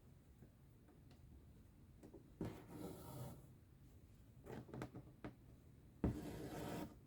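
Embroidery floss being drawn through cross-stitch fabric: two longer pulls, about two and a half and six seconds in, each under a second, with a few small rustles and clicks between.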